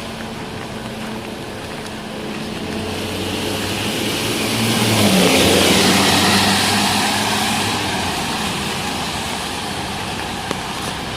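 A motor vehicle passes close by on a wet street. Its engine and tyre hiss swell to a peak about halfway through and then fade, and the engine note drops as it goes by.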